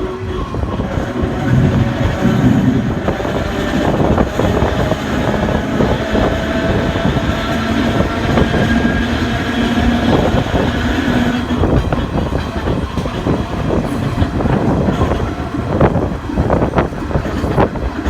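Streetcar on New Orleans' St. Charles line running along its rails: a steady rumble with clattering knocks from the wheels and track, busier in the second half, and faint steady whining tones.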